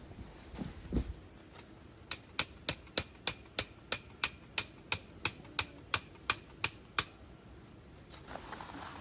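A quick, even series of about fifteen sharp clicks, roughly three a second, starting about two seconds in and stopping about two seconds before the end, over a steady high-pitched hiss.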